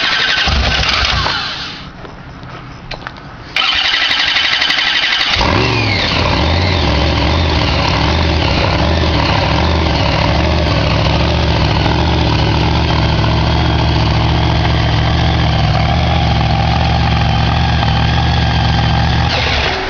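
Monster truck engine being cranked by its starter in two bursts, then catching about five seconds in and settling into a loud, unevenly pulsing idle. This is the start with the fuel switched on, after a crank with the fuel off.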